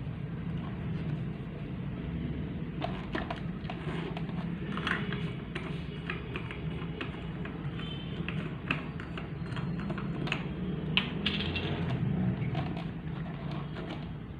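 Irregular light clicks and taps of small hard parts being handled, over a steady low hum.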